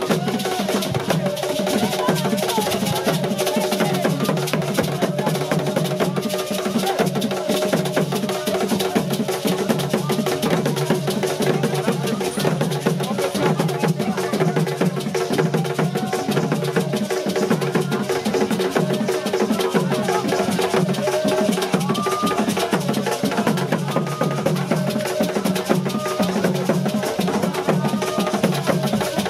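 Drums and percussion playing a dense, continuous rhythm, with steady pitched tones held underneath.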